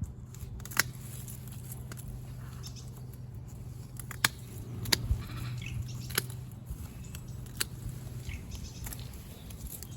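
Dead Sedum 'Autumn Joy' stems being cut at the base: about five sharp snips spread through, over a low steady hum.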